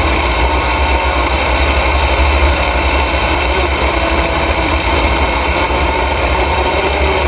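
Super stock race truck's engine running steadily, with a heavy low rumble underneath.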